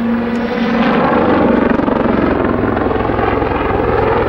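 Westland Lynx military helicopter flying a display backflip, its main rotor beating rapidly over the steady rush of its engines. A deeper low tone strengthens about two seconds in as the manoeuvre goes on.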